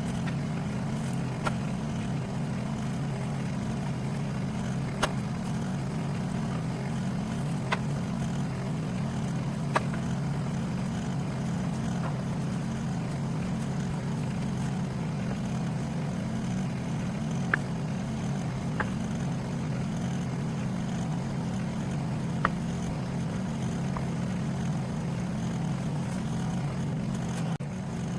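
An engine running steadily at a constant speed, with a short sharp knock every few seconds.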